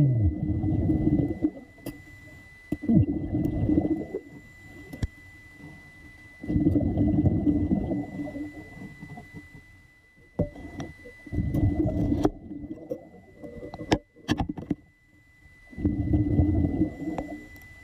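Muffled surges of sea water sloshing, in five low rushes one to two seconds long and a few seconds apart, with a faint steady high tone underneath.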